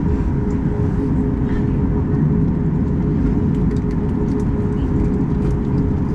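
Steady, loud cabin rumble inside a Boeing 737 MAX 8-200 as its engines and air conditioning run, with a constant mid-pitched hum running through it.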